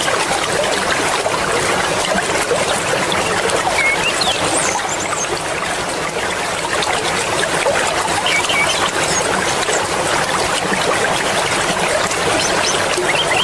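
Fast-flowing mountain river rushing steadily, a dense, even wash of water noise.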